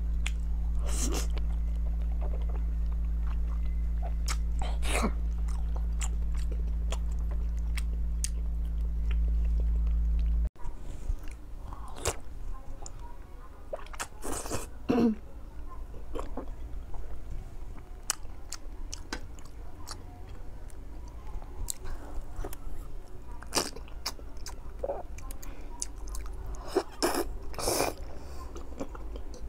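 Close-miked wet chewing, biting and lip-smacking of soft, fatty braised pork, with many sharp mouth clicks. A steady low hum runs underneath for about the first ten seconds and stops abruptly at a cut.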